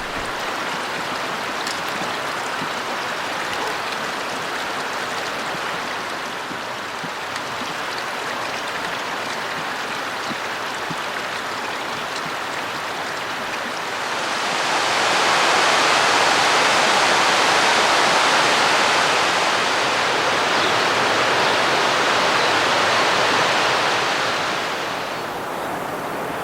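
Mountain stream rushing over rocks, a steady noise that grows louder about halfway through and falls back near the end.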